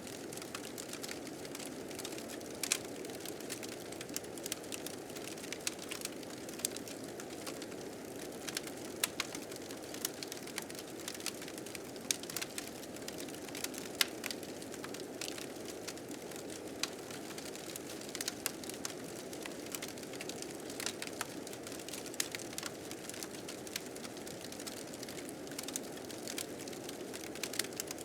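Blizzard wind blowing steadily, with a fire crackling in frequent, irregular sharp pops over it.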